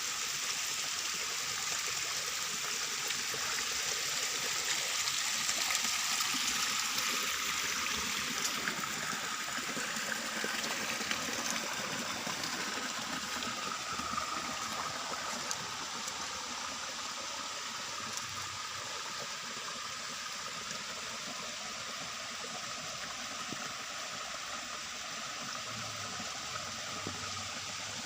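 Steady rushing of running water, with a thin, steady high tone beneath it.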